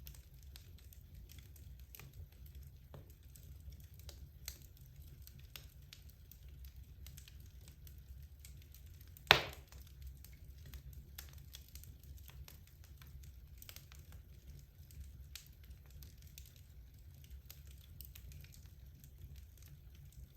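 Logs burning in a fireplace, crackling with scattered small snaps and one loud pop about nine seconds in.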